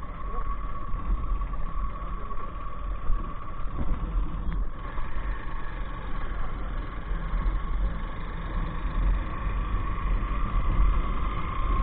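Royal Enfield Himalayan single-cylinder motorcycle running steadily while ridden, with wind rumbling on the helmet-mounted microphone.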